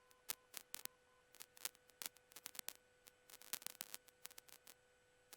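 Near silence on the cockpit audio feed, with faint, irregular clicks scattered through and a faint steady tone underneath.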